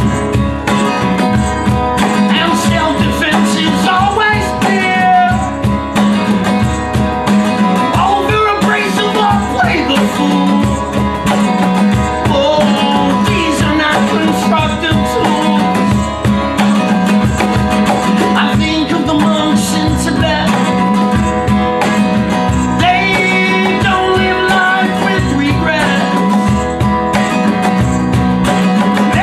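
A band playing loud, steady music led by guitar over a regular beat, with wavering melodic lines on top.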